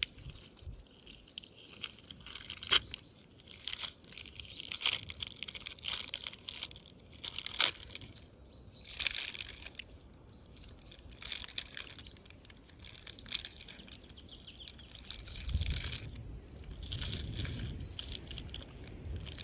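Irregular crunching and crackling close by, with small birds chirping in short repeated notes in the background.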